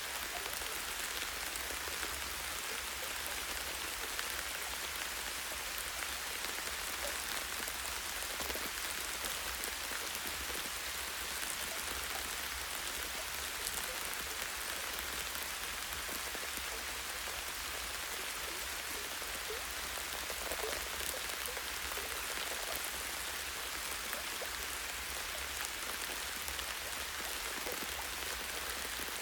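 Light rain falling steadily on tree branches and leaves: an even hiss with scattered drip ticks and a faint low rumble underneath.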